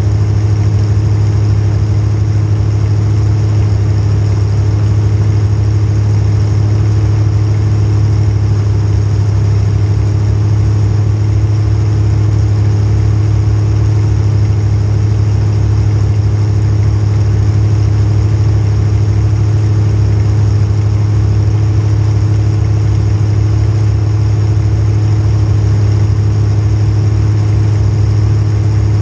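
Demolition derby car's small-block Chevy V8 running steadily at a constant, unchanging speed.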